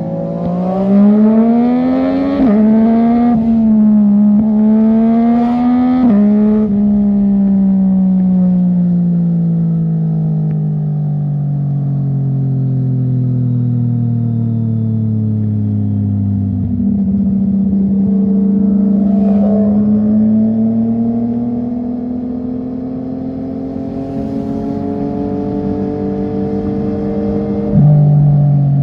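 Sport motorcycle engine with an aftermarket full-system exhaust, revving up through two quick upshifts in the first several seconds, then dropping steadily in pitch as it slows. A sudden drop at about the middle, then a long, slow climb in revs, with another sudden change near the end.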